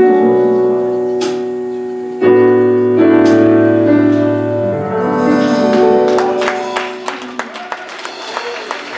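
Keyboard playing long held closing chords, with hand clapping starting about halfway through and growing toward the end.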